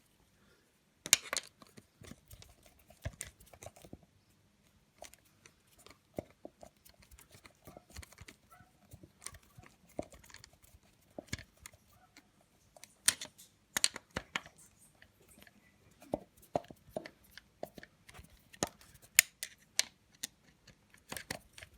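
Irregular clicks, taps and clinks of hand tools and small metal parts being handled on a motorcycle engine, with a few sharper knocks about a second in, around halfway through, and near the end.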